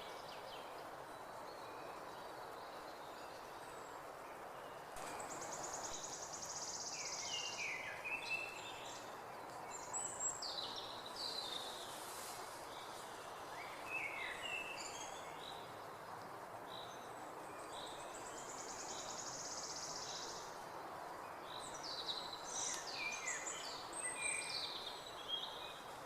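Several songbirds singing in a spring forest over a steady background hiss, with short falling chirps scattered throughout. One bird gives a long, fast, high trill twice, once about five seconds in and again about nineteen seconds in.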